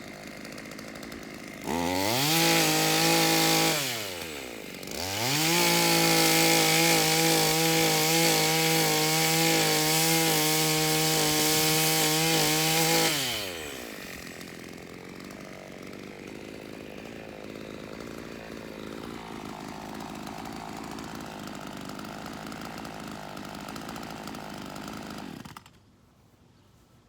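Gas chainsaw idling, then revved to full throttle twice, first for about two seconds and then for about eight seconds, dropping back to idle each time. Near the end the engine sound cuts off suddenly.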